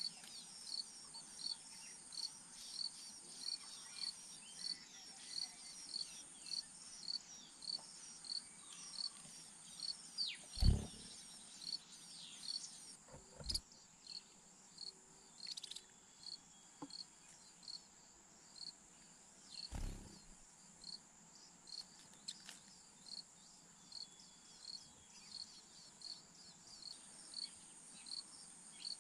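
Insects chirping in a steady rhythm, about two short high chirps a second, over a constant high-pitched buzz. Three dull knocks break in, about a third of the way through, shortly after, and about two-thirds of the way through.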